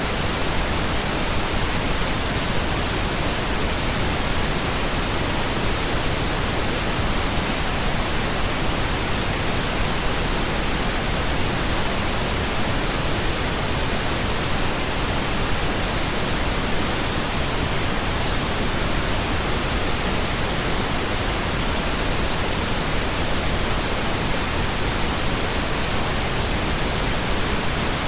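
Steady pink noise: an even, unchanging hiss across the whole range of pitch.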